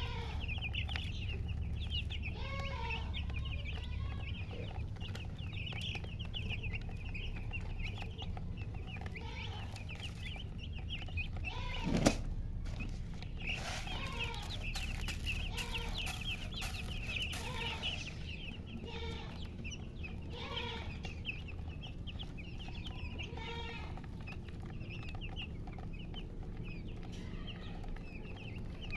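Many chicks peeping rapidly and continuously, with a hen clucking lower now and then. A single sharp knock about twelve seconds in.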